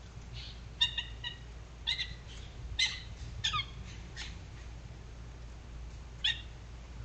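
Birds calling near the water bowl: a run of short, sharp calls, several in quick succession in the first four seconds, one sliding down in pitch, and one more about six seconds in, over a steady low hum.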